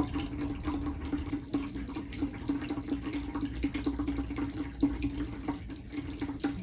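Electric pet water fountain running: water trickling and splashing over the steady low hum of its pump.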